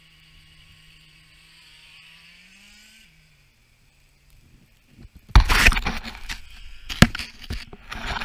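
A faint, steady engine hum that rises briefly and fades out about three seconds in. From about five seconds on come loud, irregular scraping and knocking bursts, with one sharp knock about seven seconds in.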